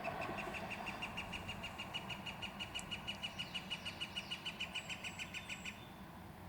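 Northern flicker giving its long call: a rapid, even series of short notes at about seven or eight a second that stops shortly before the end.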